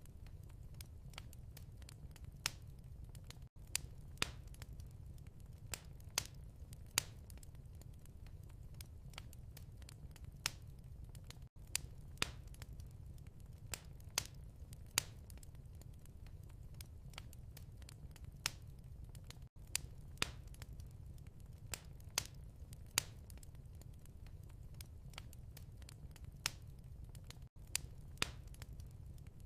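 Fireplace wood fire crackling: irregular sharp pops and snaps over a low steady rumble. There is a brief drop-out about every eight seconds.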